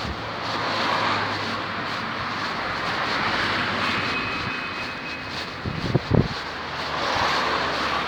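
Vehicle noise that rises and falls as it passes, with two low thumps about six seconds in.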